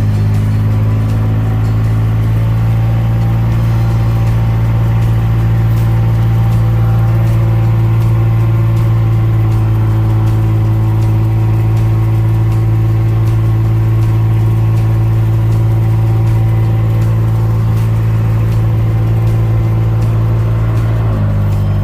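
Kubota RTV1140 utility vehicle's three-cylinder diesel engine running steadily as it drives along. Its note shifts slightly near the end.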